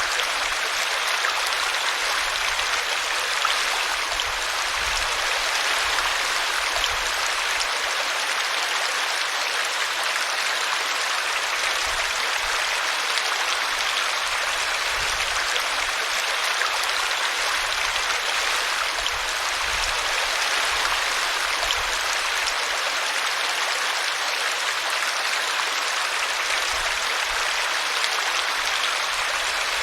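A small brook babbling over a tree root: a steady rush and splash of running water.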